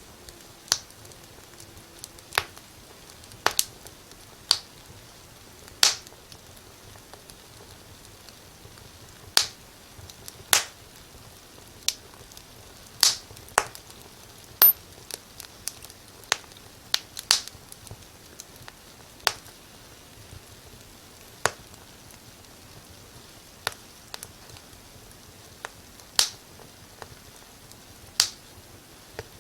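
Wood fire in a fireplace crackling: sharp, irregular pops and snaps every second or so over a low steady hiss.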